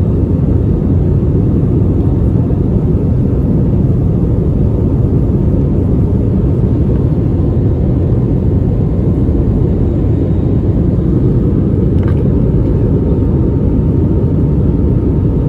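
Airbus A320neo cabin noise during the climb: a steady low rumble of the engines and rushing air, with one faint click about twelve seconds in.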